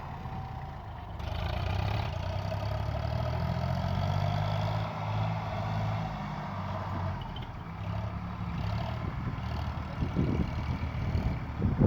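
Heavy diesel machinery engine running steadily. Near the end the low rumble turns rough and uneven.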